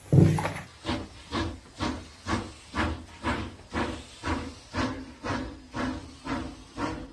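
Steady steam-locomotive chuffing, about two hissing puffs a second, the sound of a train set going with the model railway.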